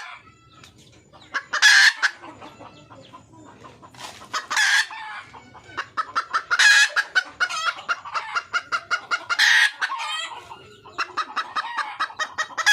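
Red junglefowl hen calling for a mate: four loud, harsh calls a few seconds apart, with fast runs of short clucks between them in the second half.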